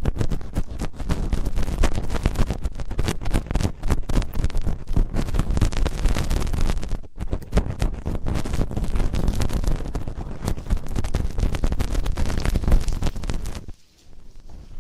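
Dense crackling, scratching and rubbing right up against a microphone's ear, ear-cleaning ASMR sounds full of close clicks and low rumble. It breaks off suddenly shortly before the end.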